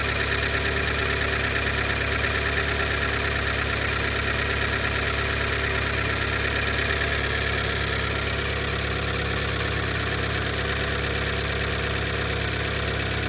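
Car engine idling steadily with a rhythmic knock from the top end that is still there after new hydraulic lifters were fitted.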